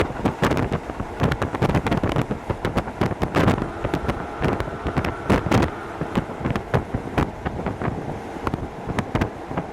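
Hokuso Railway 7260 series electric train running, heard from inside the car: a steady running rumble with many irregular clicks and knocks from the wheels and the car body over the track, and a faint steady tone in the middle.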